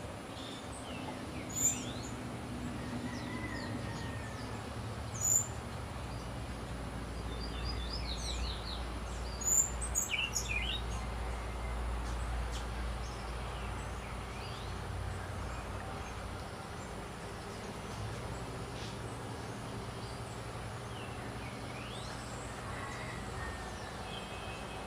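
Sicklebill hummingbird calling: sharp, high, thin chips, the three loudest coming about one and a half, five and nine and a half seconds in, among scattered short sweeping bird notes. A steady hiss and low rumble of background noise runs underneath.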